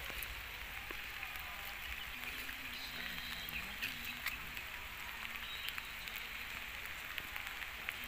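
Steady rain falling, an even hiss with many scattered drops ticking close by.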